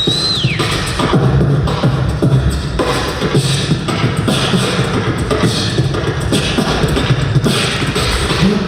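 Beatboxer performing a bass-driven vocal percussion beat: deep bass tones under a fast run of mouth-made drum hits. A high whistled tone at the start glides down and drops out within the first half-second.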